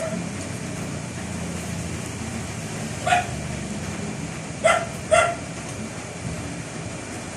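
A dog barks three times, once and then twice in quick succession, over a steady rushing background of typhoon rain and wind.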